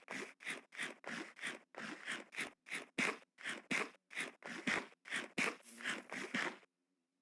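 Rhythmic scraping strokes, about three a second, that stop shortly before the end.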